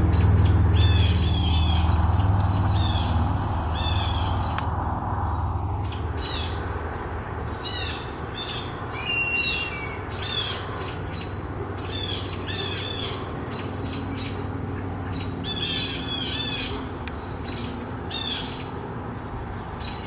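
Birds mobbing a perched hawk, giving repeated harsh scolding calls in quick bouts of two or three notes, with one short falling whistle near the middle. A low rumble is loudest at the start and fades away.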